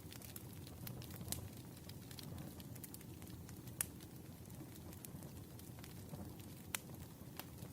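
Campfire crackling: a low, steady rumble of burning with sharp pops scattered through it, the loudest about four seconds in and again near the end.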